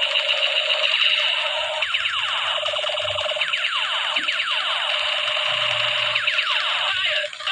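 Battery-powered toy MP5 gun playing its electronic firing sound effect: a fast, buzzing machine-gun rattle with repeated falling 'pew' sweeps.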